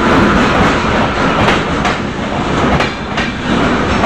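Indian Railways passenger coaches rolling past along the platform in a steady heavy rumble, with repeated clacks as the wheels run over the rail joints.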